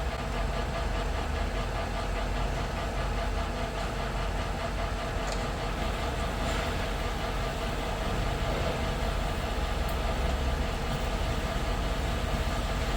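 A workshop machine tool running steadily, a constant mechanical hum with several fixed tones, typical of a lathe or mill turning or cutting steel stock.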